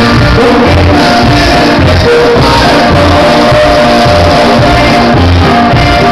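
Norteña band music played loud, with singing over a steady bass beat.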